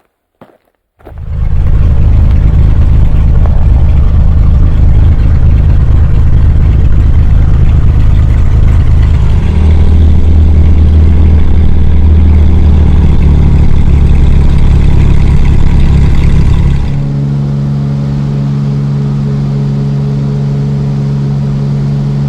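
Light aircraft's engine and propeller droning loudly inside the cabin, starting abruptly about a second in. About three-quarters through, the drone drops a little in level and settles to a steadier, slightly higher hum.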